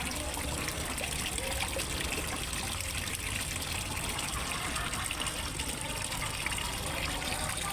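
Water from a waterfall pouring steadily into a fish pond, trickling and splashing.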